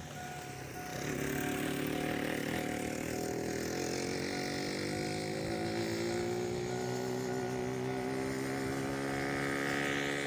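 Small engine running, growing louder about a second in, its pitch climbing slowly and steadily as it gathers speed.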